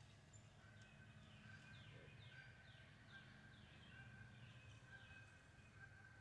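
Faint outdoor ambience with a bird calling: a run of short falling notes repeated about twice a second, over a low steady rumble.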